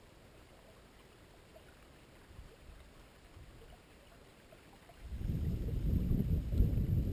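Faint outdoor background, then about five seconds in a sudden loud low rumble of wind buffeting the microphone.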